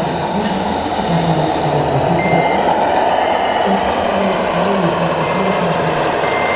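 Reversing beeper on an RC construction model, short steady beeps about once a second starting about two seconds in, over a continuous mechanical running noise from the model machines.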